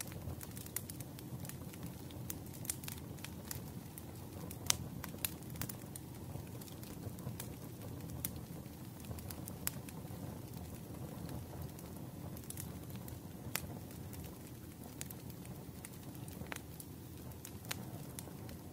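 Wood fire crackling in a fireplace: irregular sharp pops and snaps over a steady low rumble, one louder pop about five seconds in.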